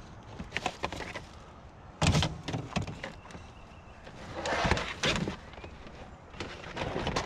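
Hollow plastic knocks and clatter as plastic storage totes and lids are handled, with one heavy thump about two seconds in and a stretch of scraping around the middle.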